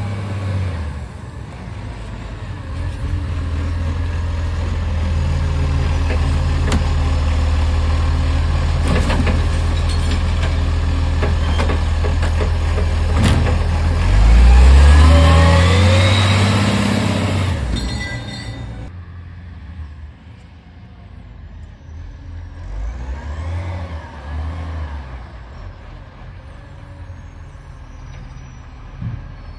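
Garbage truck's diesel engine running steadily, then revving up with rising pitch about halfway through before falling away to a quieter, fainter engine sound; the truck has an exhaust leak.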